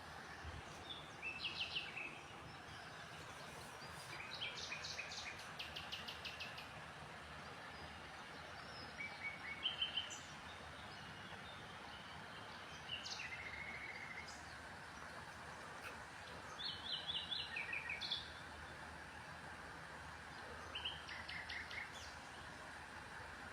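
Small birds chirping: short bursts of quick repeated high notes every few seconds, over a steady background rush.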